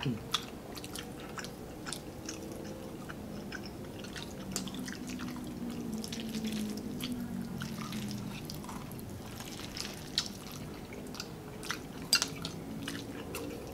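People chewing and eating spaghetti carbonara, with scattered sharp clicks of forks and tongs against bowls and the serving tray.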